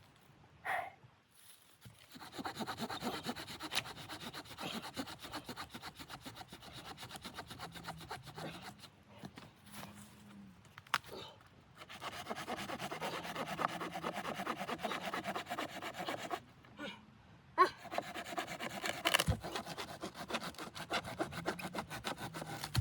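Hand saw cutting through wood in a steady run of strokes, in three spells with short pauses between, and a sharp knock between the second and third spells.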